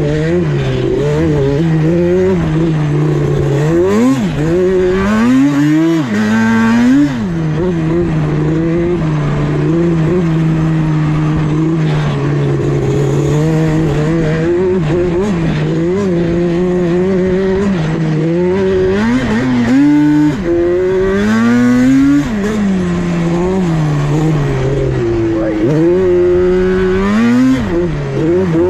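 Yamaha Banshee's twin-cylinder two-stroke engine running through a MOTOFAST 2-into-1 exhaust while being ridden. Long stretches hold a steady engine note, and it revs up in rising sweeps several times.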